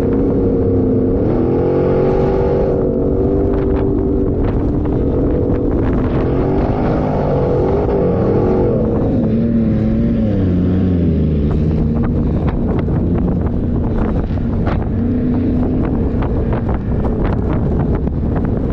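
A 4x4's engine running under load, its pitch rising and falling over and over as the throttle works, then settling lower about halfway through. Many short knocks and rattles sound over it.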